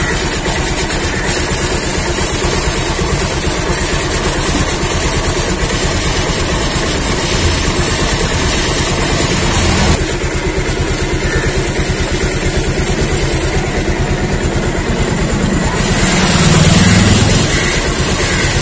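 Bajaj Pulsar 220F's single-cylinder engine running steadily at idle in gear, keeping the drive chain turning while it is being cleaned. It swells briefly louder near the end.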